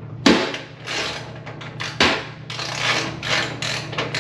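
Metal clicks and clanks of hand tools fitting and tightening the nut on a new dryer drum support roller, with two sharper knocks, one just after the start and one about two seconds in. A steady low hum runs underneath.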